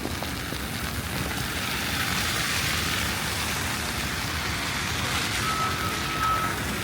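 City traffic on a snowy, slushy street: a low steady rumble of engines, with tyre hiss swelling as a vehicle passes about two seconds in. Near the end a high electronic beep sounds on and off.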